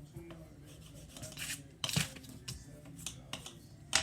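Crayon scratching across paper in short, irregular colouring strokes, with a sharper tap near the end.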